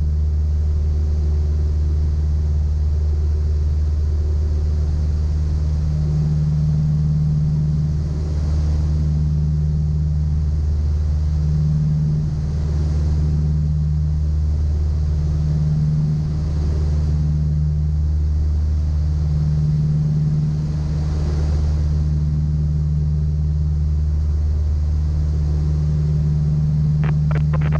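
Piper Apache's twin piston engines and propellers droning steadily, heard inside the cabin at cruise power, with the drone swelling and fading every few seconds.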